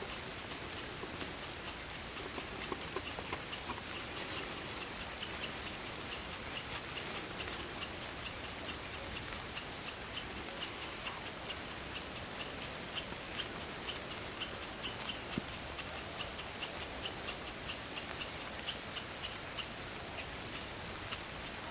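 Night forest ambience: an even hiss of rain and wind in the trees, with many light, irregular ticks, several a second, some louder than the rest.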